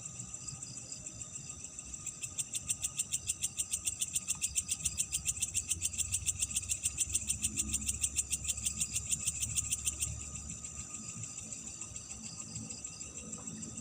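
Night insect chorus with a steady high-pitched drone, joined from about two seconds in by a louder insect calling in a rapid, even pulsing trill of about nine pulses a second that stops abruptly around ten seconds in. A faint low rumble runs underneath.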